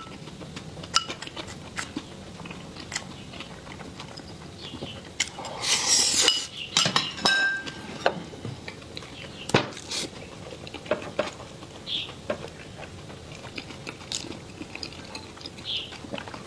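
Eating utensils tapping and clinking against bowls and dishes, in scattered clicks, with a short rustling, slurp-like burst about six seconds in and one brief ringing clink soon after.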